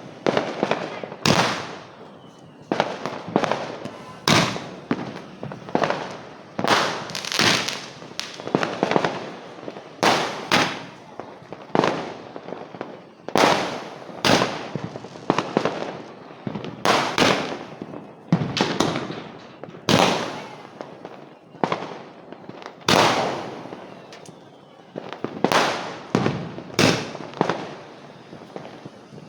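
Diwali fireworks going off in a long series of loud bangs, about one every second or so, each trailing off briefly.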